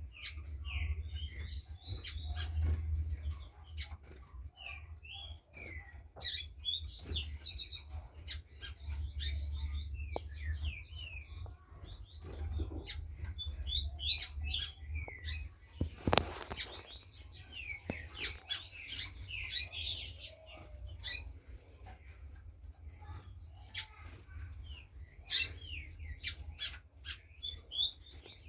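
Green-winged saltator (trinca-ferro) calling and singing in short bursts of high chirps and trills, over a steady low hum.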